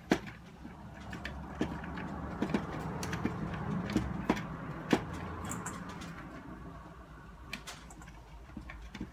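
Hands handling objects: a string of separate clicks and knocks, the sharpest right at the start, over a steady low hum.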